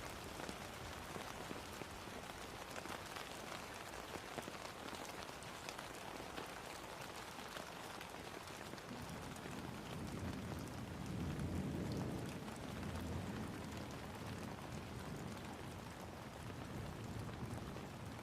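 Steady rain falling on a surface, a dense patter of many individual drops. A low rumble swells and fades about eleven to thirteen seconds in.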